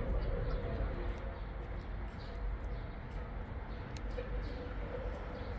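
Outdoor ambience beside a football match: a steady low rumble with faint distant voices of players, and a few sharp clicks, the clearest about four seconds in.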